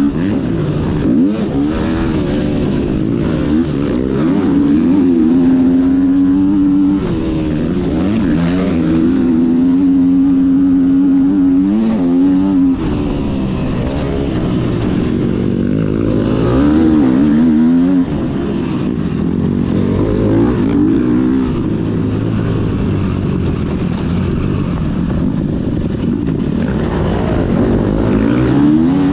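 Motocross bike engine revving hard, its pitch climbing and dropping over and over as the throttle is worked.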